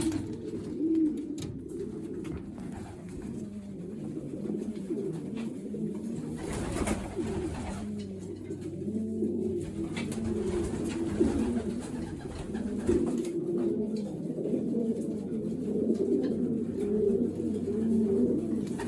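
Racing pigeons cooing, several birds overlapping continuously, with a few brief light clicks.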